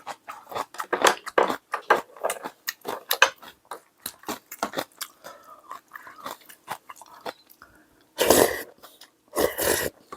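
Close mouth sounds of a man eating soggy, overcooked instant curry ramen: quick smacking and chewing, then two louder, longer noisy bursts near the end.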